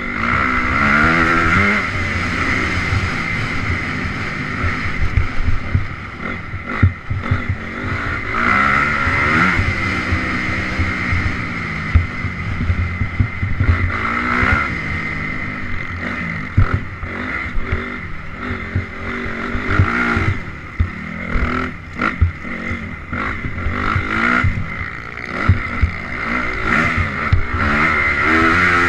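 Honda CRF 250 R dirt bike's single-cylinder four-stroke engine running hard off-road, its revs rising and falling over and over, with occasional sharp knocks.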